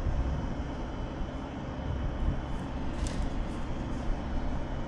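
A motor running steadily with a low rumble, with a short sharp click about three seconds in.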